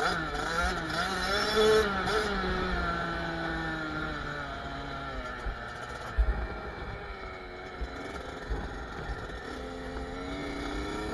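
Kawasaki KX65 two-stroke dirt bike engine revving, its pitch wavering with the throttle for the first couple of seconds, then falling steadily as it eases off. A few thumps come about six seconds in, and the engine picks up again near the end.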